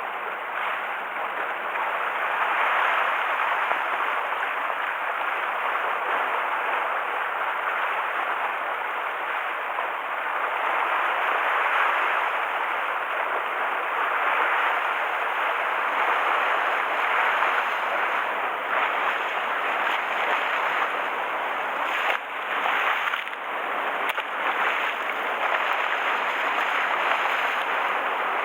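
Rough, typhoon-stirred waves on Kinko Bay washing in a steady, unbroken rush of water noise, with a few brief lulls near the end.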